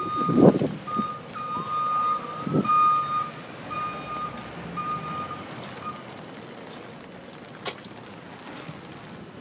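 A vehicle's reversing alarm beeping about once a second at a steady pitch, fading out about two-thirds of the way through. There is a sharp click near the end.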